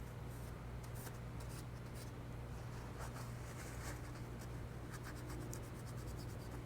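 Alcohol-dampened cloth rubbing and wiping across a disco light's color wheel, in quick, light scratchy strokes. A steady low hum sits underneath.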